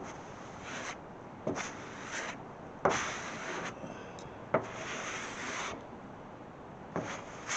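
Plastic spreader scraping body filler across a car's steel hood, about five separate swipes, each lasting half a second to a second.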